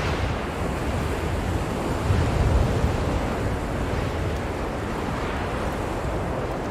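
Blizzard wind blowing hard and steadily, with a low rumbling buffet, swelling in a gust about two seconds in.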